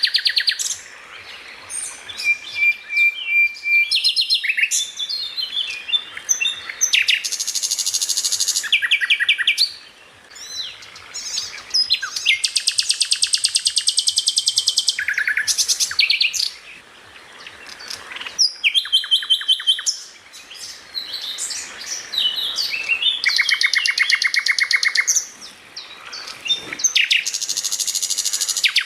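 A songbird singing a loud, varied song of chirps, whistles and long fast trills of repeated notes, with short pauses between phrases: a masteran recording, the kind played to teach captive songbirds their song.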